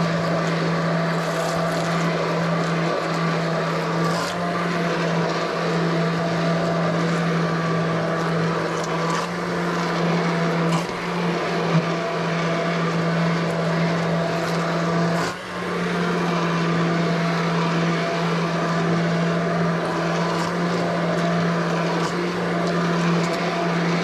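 Handheld immersion blender motor running steadily as it purées tomato soup in the pot, with a brief dip in its speed about fifteen seconds in.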